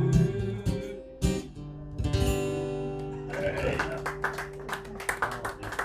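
Guitar closing a song: chords ringing out, then a final strummed chord about two seconds in left to ring, with voices and scattered clicks rising behind it in the second half.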